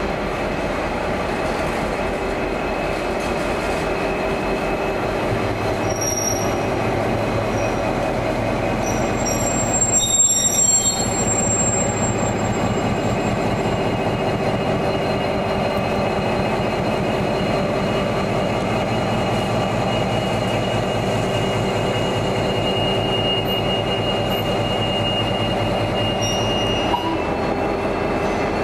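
Diesel locomotive-hauled passenger train moving through the station, its engine and rolling wheels giving a steady drone. High-pitched wheel squeal comes in several times, loudest about ten seconds in and again as a long held squeal in the latter part.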